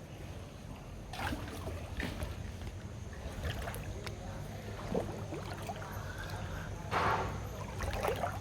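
Pool water sloshing and splashing as a person moves about in it, over a steady low rumble, with a louder splash about seven seconds in.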